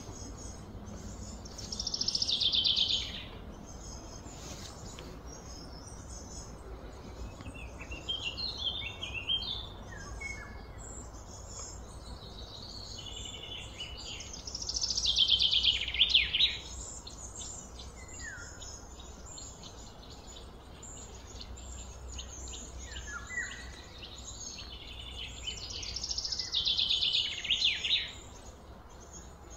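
Birds calling: three loud, fast, chattering high-pitched songs about twelve seconds apart, with scattered short falling chirps between them over a steady high background chirr.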